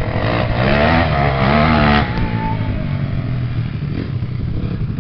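Fuel-injected Honda CRF450 motocross bike's single-cylinder four-stroke engine revving hard, its pitch climbing and dipping, then dropping abruptly to a lower, steadier run about two seconds in.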